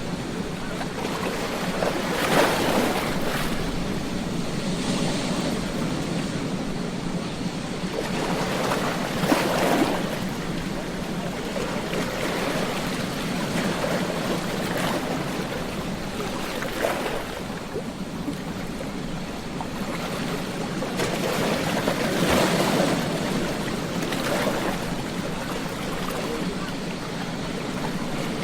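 Ocean waves breaking on a beach: a continuous rush of surf, with several louder breakers swelling and falling away, the biggest about two seconds in, near the ten-second mark and about twenty-two seconds in.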